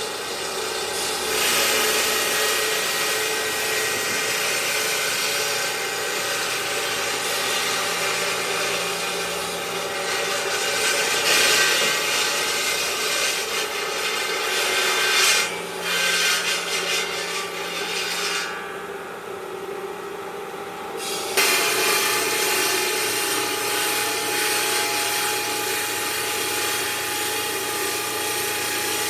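Power machinery grinding against marble, a continuous rasping noise with a steady hum under it. Its high, hissing part drops away for a few seconds past the middle, then comes back abruptly.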